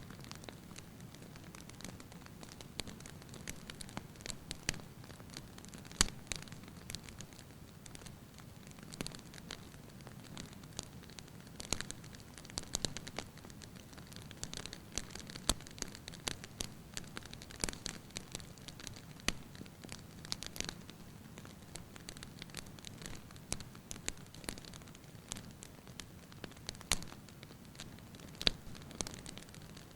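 Firewood burning in a fireplace: light, irregular crackling and popping over a soft steady hiss of the flames, with one louder pop about six seconds in.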